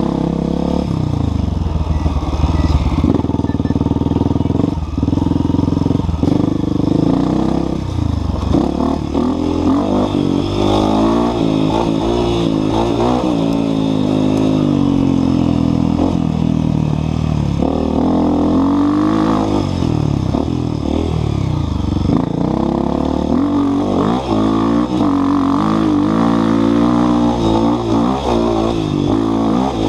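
Enduro dirt bike engine revving up and down over and over as the rider works the throttle and gears along a trail, its pitch climbing and dropping every few seconds, heard close up from a helmet-mounted camera.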